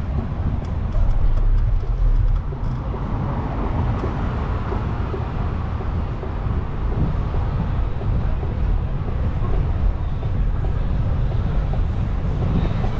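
City street traffic noise with a steady low rumble.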